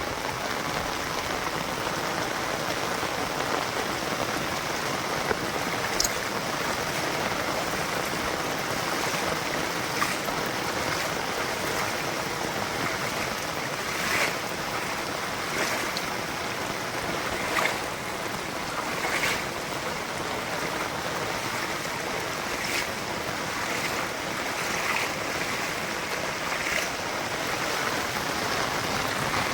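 Steady monsoon rain falling, an even hiss of water, with short sharp taps standing out every few seconds.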